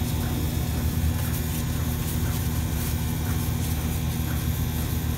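Milking machine running: a steady low hum from the vacuum system, with the pulsator cycling in a soft regular beat about once a second as the milker works on the cow.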